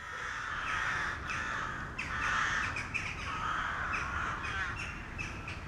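Crows and magpies squabbling: many harsh, overlapping cawing and chattering calls in quick succession.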